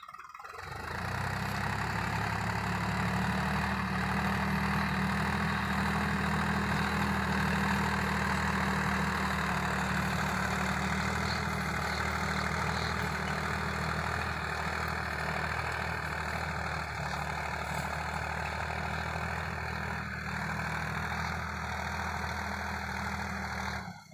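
A tractor's diesel engine running at a steady speed. It comes in about a second in and cuts off suddenly near the end.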